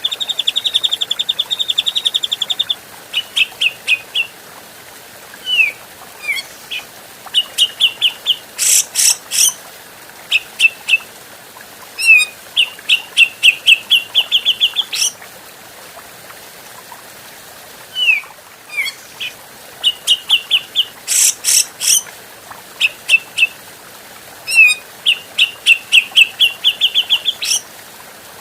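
Cucak jenggot (grey-cheeked bulbul) singing: phrases of quick repeated chattering notes broken by short pauses, with a few single down-slurred whistles and two or three harsher, scratchy bursts.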